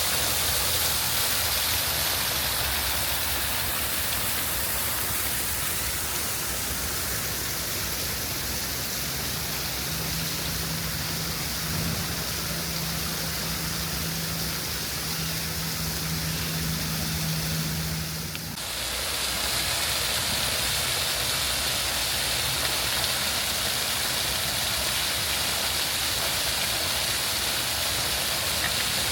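Steady rushing outdoor noise, of the kind made by city traffic or running water. A low, steady engine-like hum joins for several seconds in the middle. The sound changes abruptly about two-thirds of the way through.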